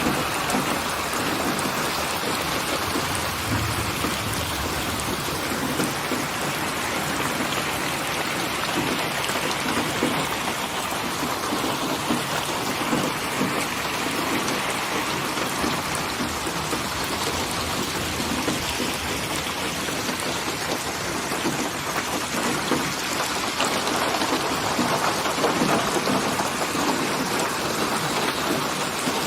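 Steady, dense rain falling without a break, with a low rumble of distant thunder about four seconds in.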